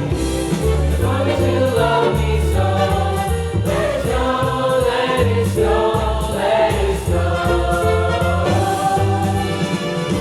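A student choir singing a holiday song over an instrumental accompaniment with a stepping bass line.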